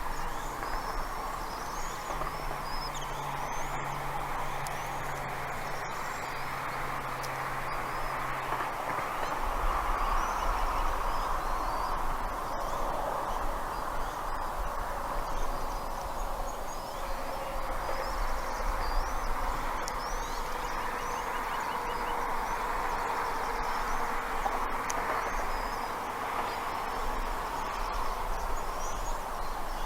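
Outdoor ambience from around a nest: small birds give many brief high chirps throughout over a steady rushing background noise, with a few sharp clicks.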